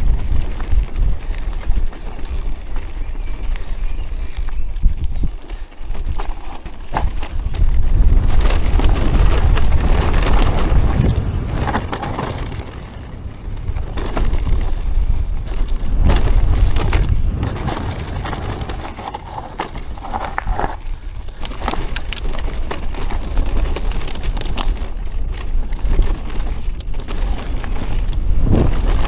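Bicycle ridden over a rough dirt trail, with many small knocks and rattles over the bumps. Heavy wind rumble on the microphone rises and falls with the speed.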